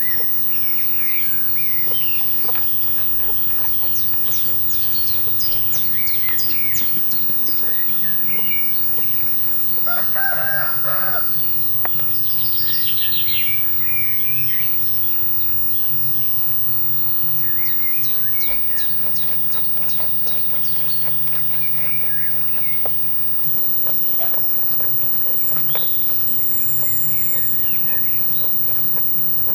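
Birds chirping and trilling throughout, with a rooster crowing once about ten seconds in, over a steady low hum.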